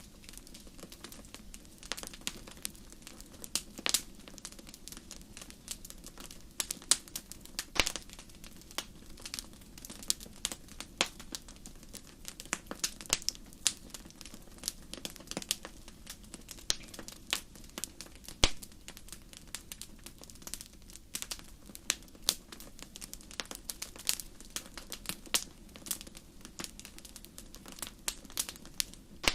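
Wood fire crackling in a fireplace: irregular sharp pops and snaps over a low steady hiss, with a few louder pops at about 4, 8 and 18 seconds in.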